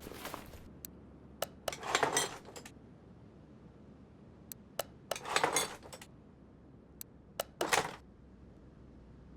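Hard metal parts clinking and rattling as they are handled: single sharp clicks between three short bursts of rattling.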